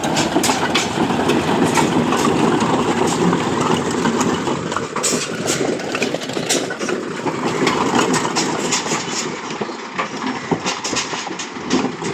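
Diesel tractor engine of a Massey Ferguson 241 DI running, a dense steady clatter with many sharp knocks and rattles over it.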